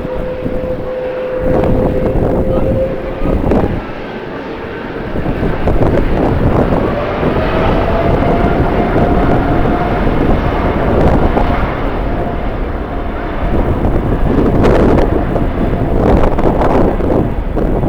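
Jet airliner engines running with a steady whine that rises slightly in pitch a few seconds in, under heavy wind buffeting on the microphone.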